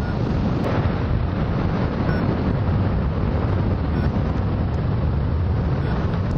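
Steady, loud rush of wind over the camera microphone on a hang glider in flight in strong, rough air.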